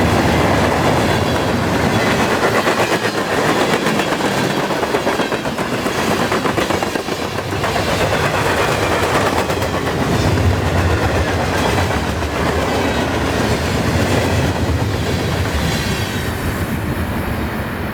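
Freight cars rolling past at about 42 mph. Steel wheels clatter over the rail joints in a steady, rapid clickety-clack over a wide rumble, and the high hiss thins out near the end.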